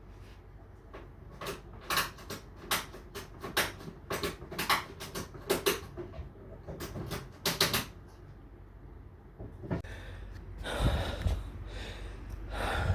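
A run of sharp irregular clicks and knocks, a few a second, as a refrigerator is wrestled back onto a hand dolly, followed near the end by a couple of seconds of rubbing and shuffling.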